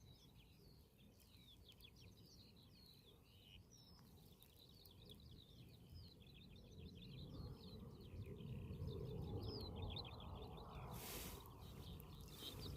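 Faint birds chirping and twittering in the background over a low rumbling outdoor noise that grows louder in the second half. A short burst of hiss comes near the end.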